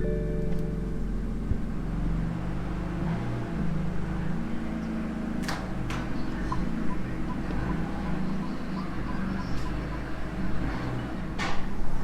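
BMW F80 M3's twin-turbo straight-six idling steadily through an M Performance exhaust with the secondary catalytic converters deleted, a deep, definitely louder exhaust drone. Two sharp clicks come about five and a half and eleven and a half seconds in.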